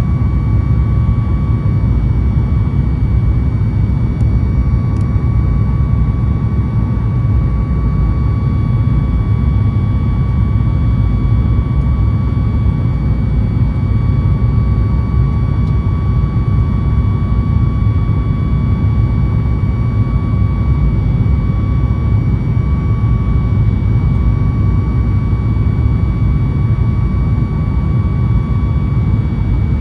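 Steady cabin noise of a Boeing 737 MAX 8 with its CFM LEAP-1B engines running: a heavy, even rumble with a steady whine on top, heard from inside the passenger cabin.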